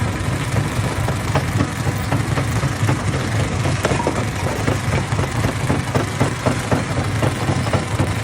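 Hammer-type stone crusher running: a steady low drone with irregular sharp knocks and clatter from rock inside the machine.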